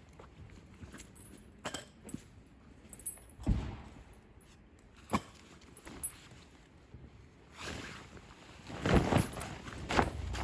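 Scattered knocks, rustling and footsteps of someone handling camping gear, with sharp knocks about three and a half and five seconds in and a louder burst of rustling and knocking near the end.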